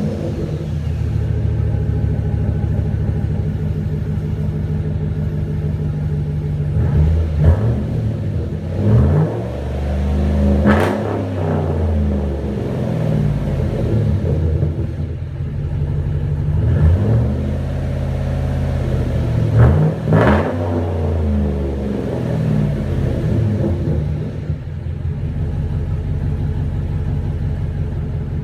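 2012 Chevrolet Silverado's 5.3-litre V8 with the muffler removed and a Y-pipe in its place, catalytic converters kept, running at idle. It is blipped in short revs several times, the sharpest about eleven and twenty seconds in, then settles back to a steady idle.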